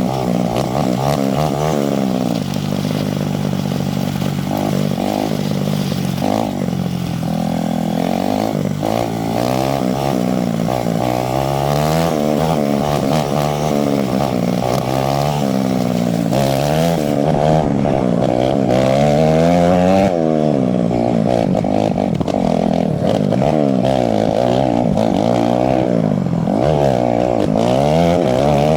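Two-stroke dirt bike engine being ridden hard, revving up and down again and again, its pitch climbing and dropping every second or two as the throttle is opened and closed.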